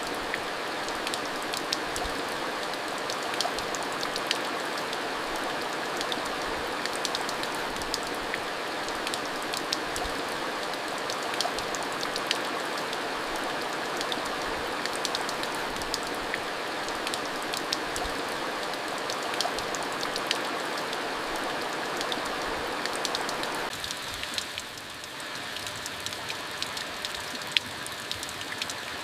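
Steady monsoon rain falling, a dense hiss of rain with many separate drops ticking sharply on hard surfaces. It becomes slightly quieter about three-quarters of the way through.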